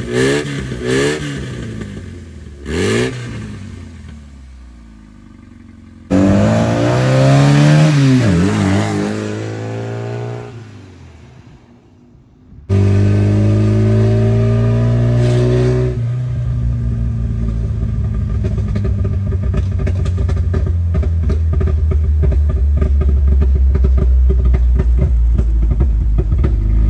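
Rebuilt Toyota 22R four-cylinder engine revving in a few short clips, with abrupt cuts between them. First quick blips of the throttle, then about six seconds in a rev that rises and falls away, and from about thirteen seconds in steady running that slowly builds.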